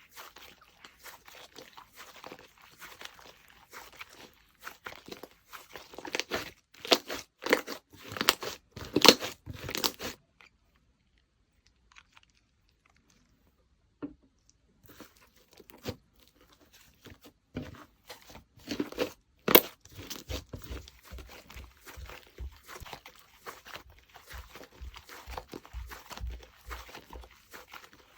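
Slime being squished, stretched and pressed by hand, giving crackling, popping clicks, the loudest about seven to nine seconds in and near twenty seconds in. It stops for about four seconds in the middle, and later clicks come over soft low thuds.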